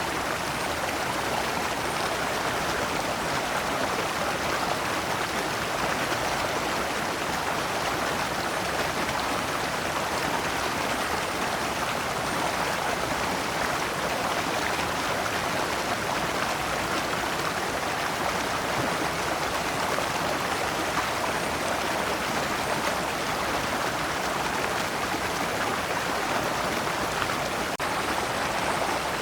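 Shallow rocky stream running steadily over stones in small cascades, a continuous even rush and splash of water.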